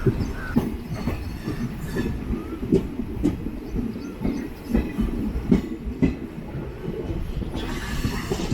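DEMU train running, its wheels knocking irregularly over the rail joints with a steady low rumble underneath.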